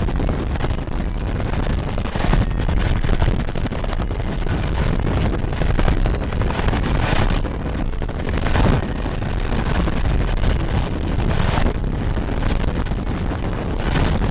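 Heavy transport helicopter running close by: loud, rushing rotor and turbine noise that swells now and then.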